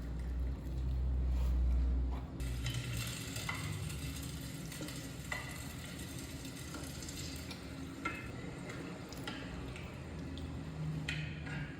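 Food sizzling in a frying pan while it is stirred, with light clicks of a utensil against the pan. A low rumble dominates the first two seconds.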